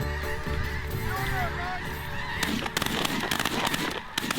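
A flock of snow and Ross geese calling in a steady chorus of honks, with a couple of sharp bangs about halfway through and again near the end.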